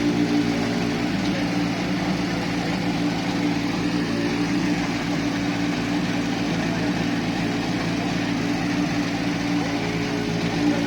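A vehicle engine idling steadily, its pitch and level holding constant with no revving.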